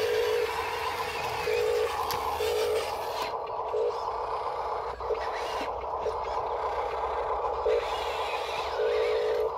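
Huina 1582 radio-control dump truck's electric motors and gears whining in short on-off bursts over a steady mechanical hum.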